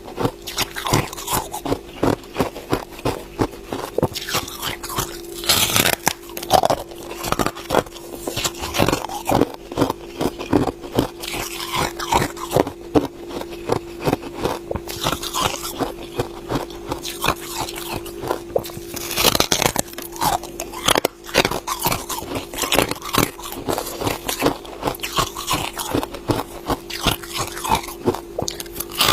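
Ice being bitten and chewed: a continuous run of sharp crunches and crackles, with louder bites about six seconds in and again near nineteen seconds, over a steady low hum.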